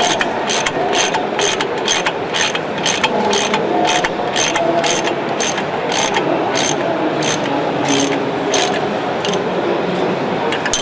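Socket ratchet wrench clicking steadily, about three clicks a second, as a bolt is turned; the clicks slow and stop near the end.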